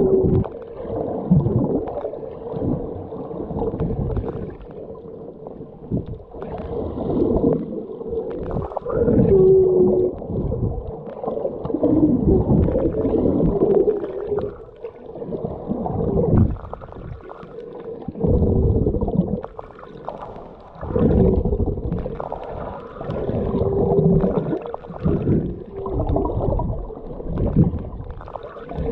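Muffled underwater sound picked up by a camera held below the surface while snorkeling: dull water rushing and gurgling that swells and fades every couple of seconds.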